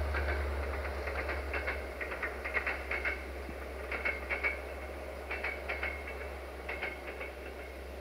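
A passing train going away: a low rumble fading out, with scattered sharp clicks and short high squeaks from its wheels on the rails.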